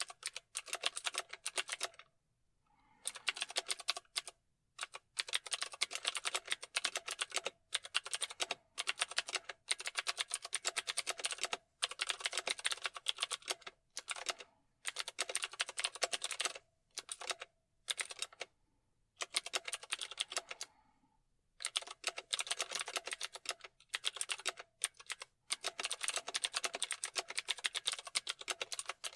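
Typing on a computer keyboard: quick runs of key clicks lasting a second or a few seconds, broken by brief pauses.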